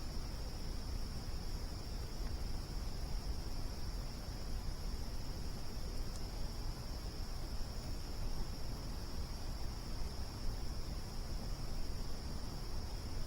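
Crickets trilling as one steady, unbroken high drone over a low, even rumble.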